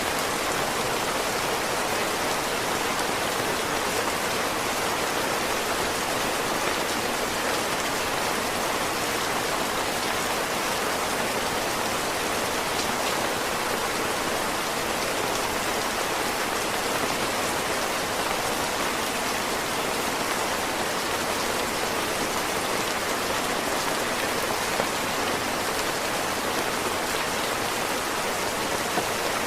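Heavy rain falling steadily in an even hiss of drops, with a faint tick or two near the end.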